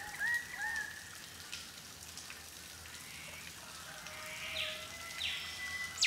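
Birds calling over a faint steady hiss. There are a few short repeated notes near the start, a couple of falling whistles in the second half, and a sharp downward sweep at the very end.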